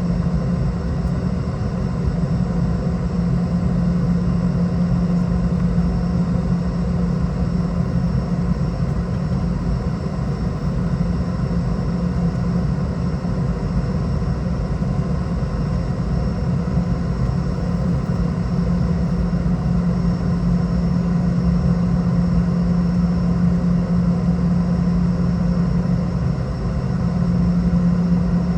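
Steady engine and airflow drone inside the cabin of a Boeing 717-200, whose two rear-mounted Rolls-Royce BR715 turbofans are running: a constant low hum with fainter steady higher tones.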